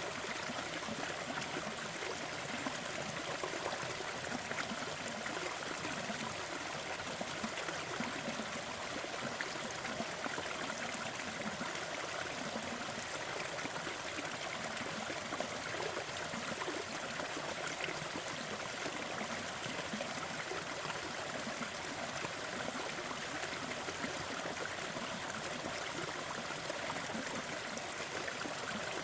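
Waterfall: water falling and splashing in a steady, even rush, with no change throughout.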